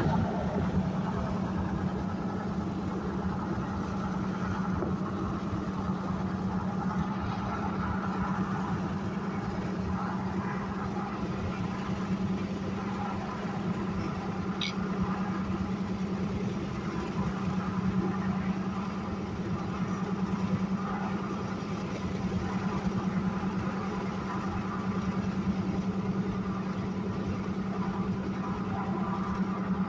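Car engine running steadily with a constant low hum.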